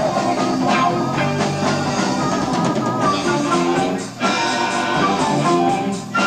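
Progressive rock band playing live, with drums and guitar, on an amateur tape recording of a concert. The sound drops for a moment twice, about four seconds in and near the end.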